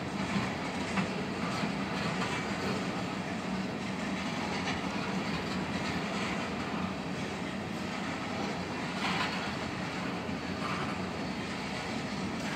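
Tank cars of a freight oil train rolling past: steady wheel-on-rail noise with a few faint clicks.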